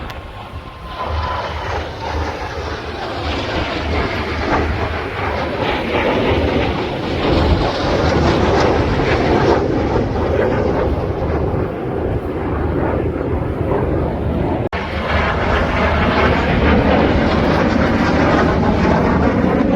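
A pair of BAC Strikemaster jets flying a display, their Viper turbojets making a roar that builds over the first several seconds and then stays loud. The roar breaks off for an instant about fifteen seconds in.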